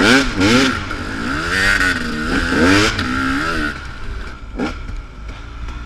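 Dirt bike engine revving up and down again and again as the throttle is worked on a trail. About three and a half seconds in it drops back to a lower, quieter run, with a single sharp knock a second later.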